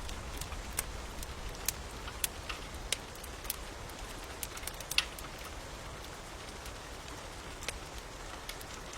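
Steady rain with a crackling fire: irregular sharp pops and snaps over an even hiss, the loudest pop about five seconds in.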